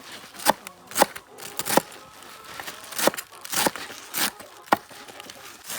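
Knife chopping on a cutting board: a series of sharp, uneven chops, about one or two a second.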